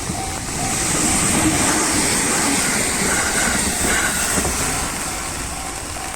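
A train passes over the level crossing, a rush of wheel and rail noise that swells about a second in and fades by about five seconds. It drowns out the crossing's warning bell, which rings about twice a second before and after the pass.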